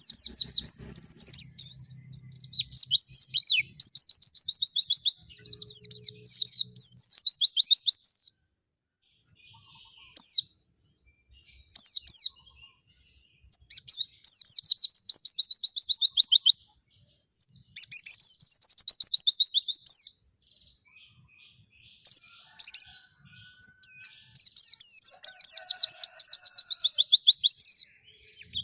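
White-eye (pleci) singing long, fast, high-pitched twittering phrases, each lasting a second or two, with a longer pause about a third of the way in.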